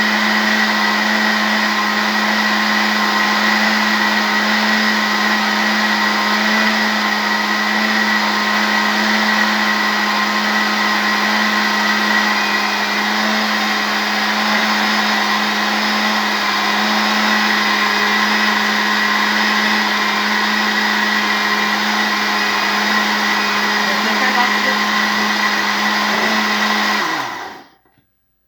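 Mallory electric blender motor running at a steady speed with a high whine, then switched off about a second before the end and winding down. The jar's fruit is not being chopped properly despite the long run.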